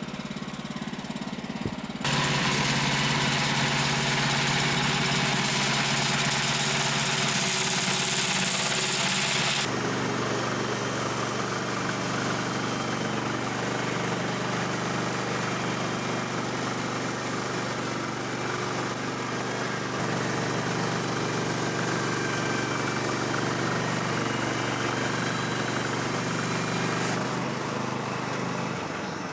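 The gas engine of a Woodland Mills HM126 bandsaw sawmill running steadily. From about two seconds in, a loud hiss rides over it for several seconds, then drops away, and the engine's level shifts a couple of times later.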